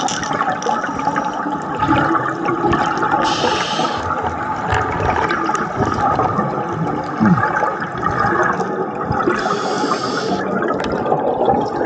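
Underwater bubbling and gurgling of a scuba diver's regulator exhaust, with two short hisses about six seconds apart, typical of breaths drawn through the regulator.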